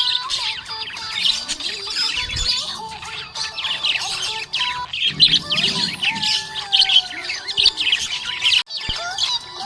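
Budgerigars chirping in a fast, continuous high chatter, broken by a brief pause near the end.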